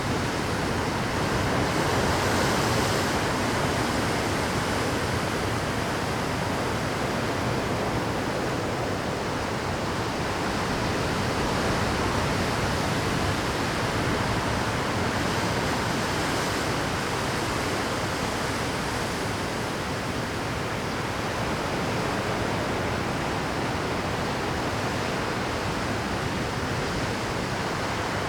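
Rough Pacific surf breaking continuously on shoreline rocks: a dense, unbroken wash of wave noise that swells slightly and eases without pause.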